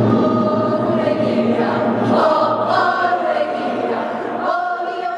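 A group of voices singing a chant together, holding long notes, growing softer near the end.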